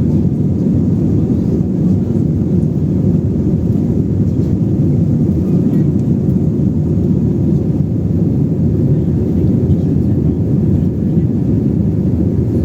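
Steady low rumble of an airliner's jet engines and airflow heard from inside the passenger cabin, as during the climb after takeoff.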